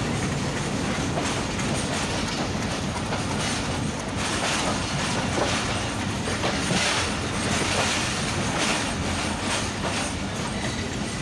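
Passenger train coach rolling slowly on the rails, heard from an open coach doorway: a steady rumble and rattle of wheels and running gear, with a few irregular clacks as the wheels cross rail joints.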